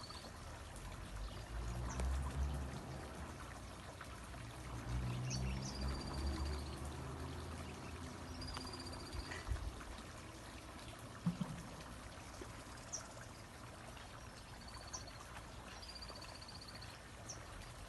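Water running steadily. A bird calls several times, each call a short rise into a high trilled note held about a second. There are a few sharper chirps and low rumbles near the start and again a third of the way in.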